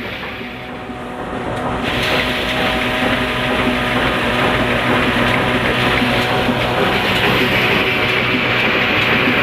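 Old black diesel engine running steadily while driving an atta chakki stone flour mill. About two seconds in, a louder hiss joins the engine's steady hum and stays.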